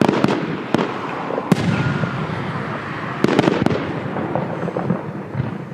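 Fireworks going off: a run of sharp bangs from bursting shells over a continuous crackle, with a quick cluster of bangs a little past the middle.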